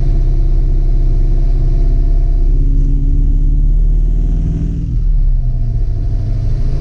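1966 Ford Mustang's engine running steadily under way with a low, even drone; about five seconds in the note dips and drops lower in pitch, as when easing off the throttle, then carries on.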